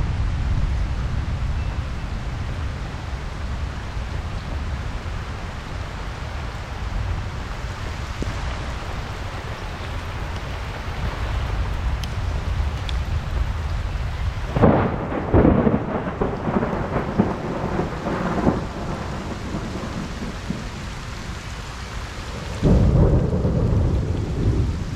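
Rain falling over a steady low rumble of thunder, broken a little past halfway by a sudden loud, crackling peal of thunder lasting a few seconds, with another short loud clap near the end.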